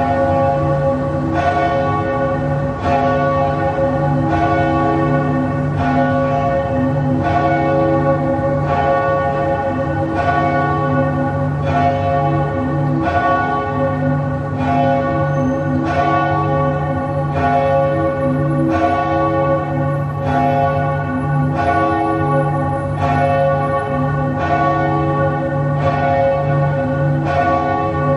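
Church bells tolled slowly as a death knell, a new stroke about every second and a half over the ringing of the ones before.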